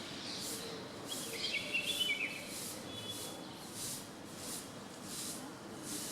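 A few short bird chirps clustered a little over a second in, over a high-pitched hiss that pulses about once every two-thirds of a second.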